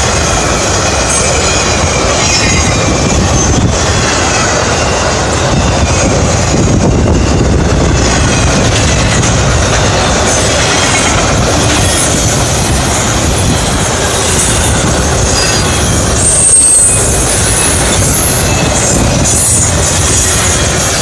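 Intermodal freight cars loaded with containers and trailers rolling past: a steady, loud rumble of steel wheels on rail. Brief high-pitched wheel squeals come and go, the loudest about two-thirds of the way through.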